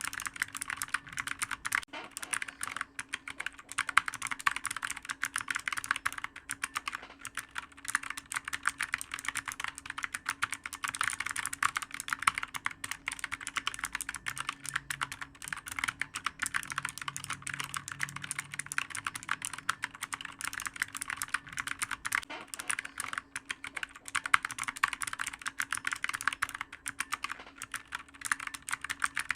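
Continuous fast typing on a clicky computer keyboard: a dense, unbroken stream of key clicks.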